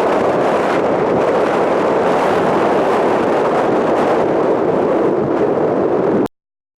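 Strong wind buffeting the microphone: a loud, steady rushing that cuts off suddenly near the end.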